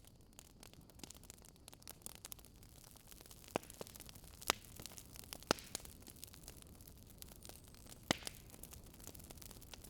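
Wood fire crackling: a soft steady hiss with scattered sharp pops, a few louder ones in the middle.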